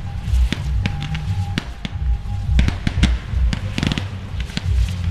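Fireworks going off in a string of sharp bangs and crackles, over loud music with a heavy bass beat.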